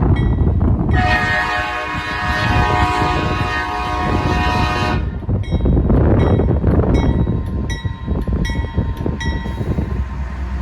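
A CSX freight train's locomotive horn sounds one long chord of about four seconds, about a second in, over the low rumble of the train. Before and after the horn a grade-crossing bell dings about three times a second.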